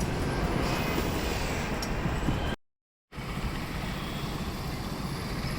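Steady city street traffic noise, a continuous hum of passing vehicles, cut by a half-second of dead silence about halfway through.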